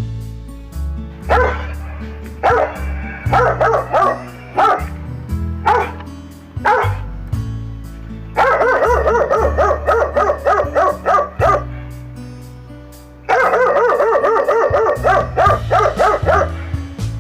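Dog barking over background music: scattered single barks at first, then two runs of rapid, continuous barking of about three seconds each in the second half.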